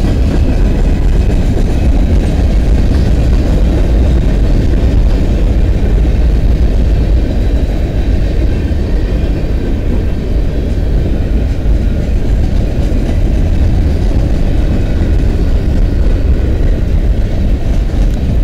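Freight train's boxcars and covered hoppers rolling past: a steady, loud rumble of steel wheels on the rails.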